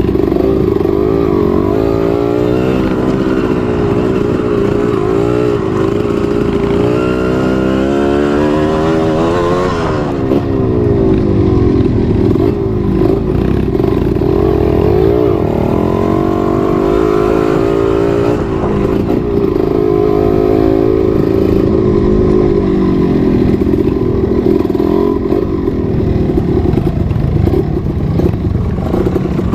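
Trail motorcycle engine revving up and down over and over as the throttle is worked, the pitch rising and falling every second or two.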